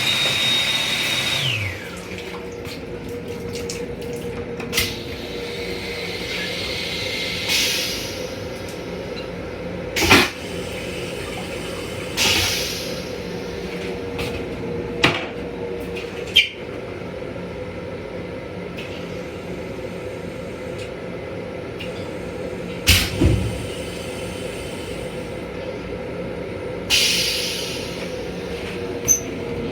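Toilet in an M7 railcar restroom flushing, with water running, over a steady hum. A high steady tone stops about a second and a half in, and several sharp knocks come and go.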